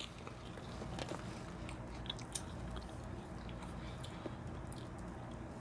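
People chewing Rap Snacks hot cheese fries, with a few faint crunches scattered over a low steady hum.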